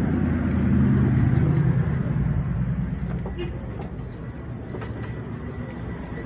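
Motor vehicle engine running close by, swelling about a second in and then fading, like a vehicle passing or pulling away.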